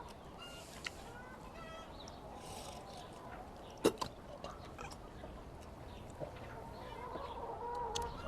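Hens clucking in the background, scattered short calls that thicken toward the end, with one sharp click about four seconds in.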